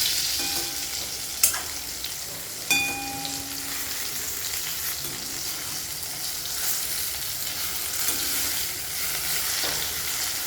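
Food sizzling as it fries in a pan, with a metal utensil knocking against the pan twice, each knock leaving a brief ring.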